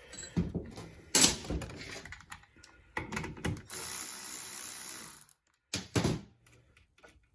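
Metal parts and hand tools clicking and knocking as a winch is handled on the bench, with a steady hiss lasting about a second and a half midway through.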